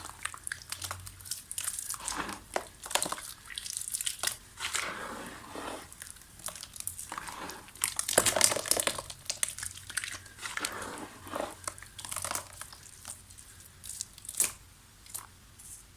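Soft dried mud crumbling and crunching, in irregular bursts of fine crackling that are busiest about halfway through.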